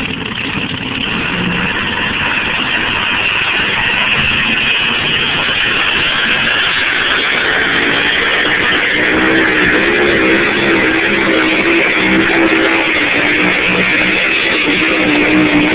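A pickup truck's engine running hard under load, mixed with loud guitar music. From about halfway through, a wavering pitched tone rises out of the noise.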